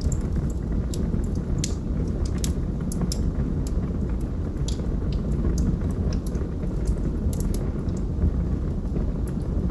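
Wood fire in a fireplace crackling, with irregular sharp pops and snaps, several a second, over a steady low rumble of the flames.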